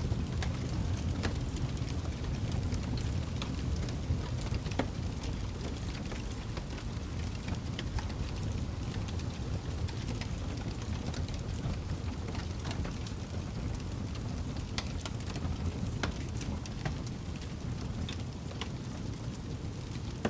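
Wood campfire burning: scattered sharp crackles and pops over a steady low rumble of the flames.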